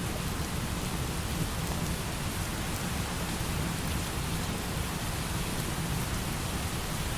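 Steady light rain, with a low rumble of distant thunder underneath.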